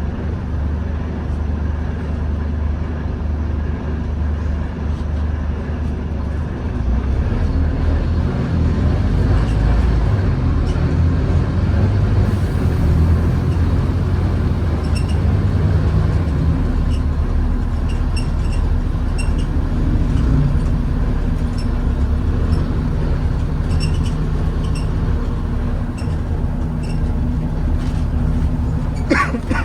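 Scania N230UD OmniCity double-decker bus running, heard from inside the bus: a steady low engine drone that pulls harder and louder from about a quarter of the way in. Light repeated ticks come from about halfway, and a short high squeal sounds near the end.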